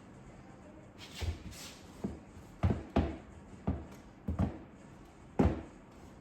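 A series of about eight sharp knocks and taps at uneven intervals, the loudest near the end, from a wall-mounted mail holder being fitted and hung on the wall.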